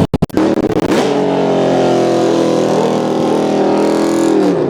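A car engine revved hard and held at high revs for about four seconds, the note steady, then dropping off near the end. A few sharp cut-outs break the sound in the first half second.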